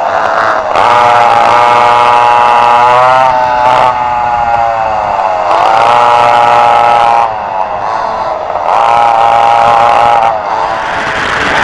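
Vintage dual rear-engine racing kart engines at full throttle. Their pitch climbs, then drops sharply as the driver backs off, about three times over.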